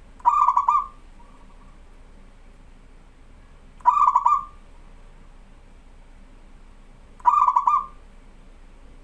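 Local zebra dove (perkutut) cooing: three short phrases about three and a half seconds apart, each a quick stutter of notes running into a brief coo.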